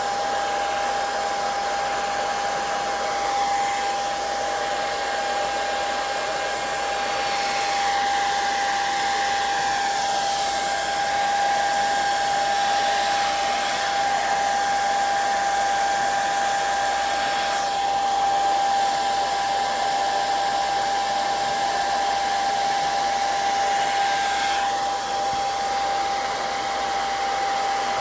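Hair dryer running on its low setting, a steady whine over an even rush of air, drying wet watercolor on the paper.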